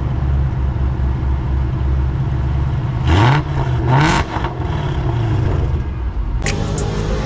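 2007 Shelby GT500's supercharged V8 running with a steady low rumble, blipped twice about three and four seconds in, each rev rising quickly in pitch and falling back. Music comes in near the end.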